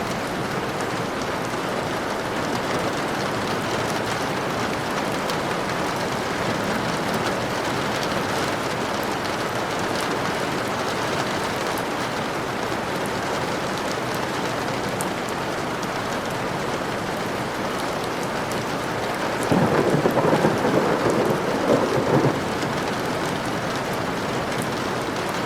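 Steady rain falling, with a louder, crackling clap of thunder about twenty seconds in that lasts some three seconds.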